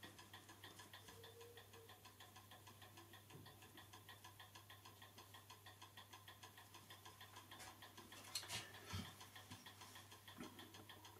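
Clock's platform escapement ticking quickly and evenly, faintly, about five ticks a second. A few small knocks from handling come between eight and nine seconds in.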